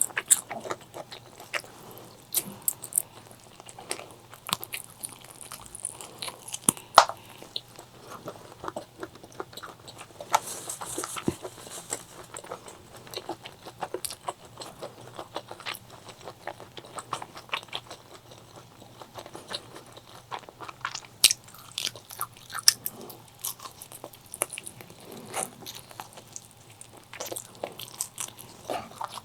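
Close-miked eating sounds: biting and chewing with irregular crunchy, crackling clicks throughout, and a denser, noisier stretch around the middle.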